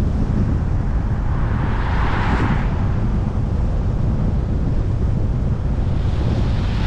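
Steady low road and wind rumble of a moving vehicle picked up by a dash-cam microphone, with a hiss of tyres swelling and fading about two seconds in and again near the end.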